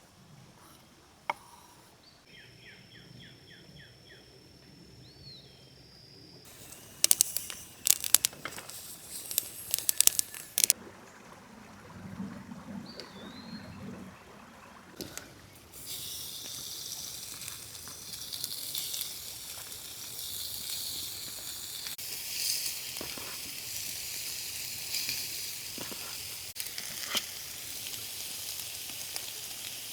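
Utensils or cookware clinking and knocking a few times, then food starting to sizzle in a hot pan about halfway through and frying steadily. A faint bird call comes early on.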